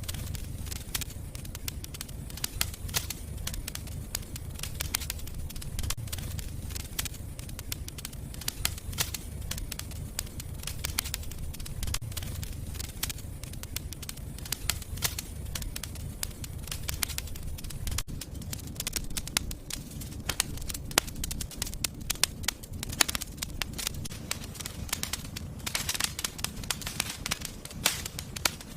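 Fireplace fire crackling: a constant run of sharp pops and snaps over a steady low rumble, with the crackling growing denser and hissier near the end.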